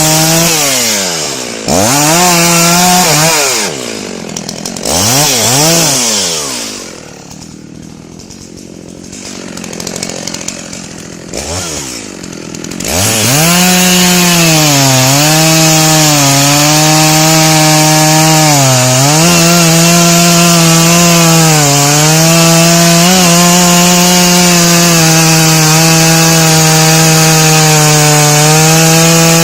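Two-stroke chainsaw revving up and dropping back several times, idling low and quieter for a few seconds, then running at full speed from about halfway through, its pitch holding with small dips as it cuts into the wood.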